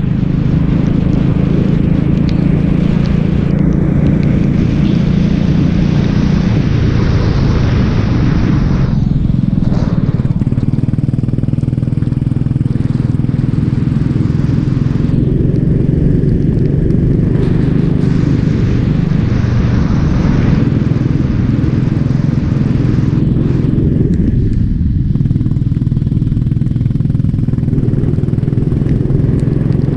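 Racing kart engine running hard, heard close up from on board, its pitch dropping and climbing again several times as the kart slows for corners and accelerates out, over a steady hiss of wind and road noise.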